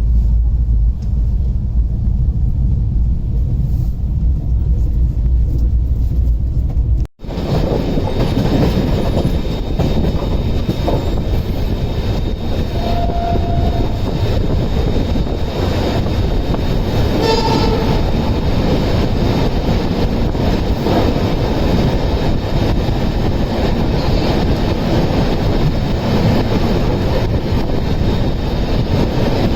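Indian Railways express train running, with steady rail and wheel noise. A brief horn sounds a little past the middle. The first seven seconds hold a different low, steady rumble that cuts off abruptly.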